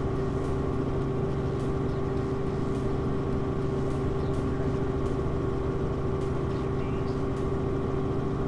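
Helicopter cabin noise: a steady drone of engine and rotor with a constant humming tone, and faint regular ticks about twice a second.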